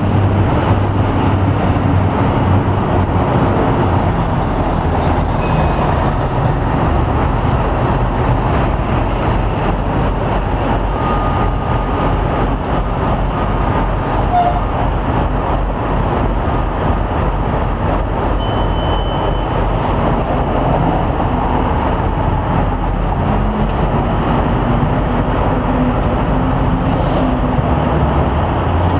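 Steady rumble of the Roosevelt Island aerial tramway as the cable-hauled cabin comes into the station, mixed with city traffic.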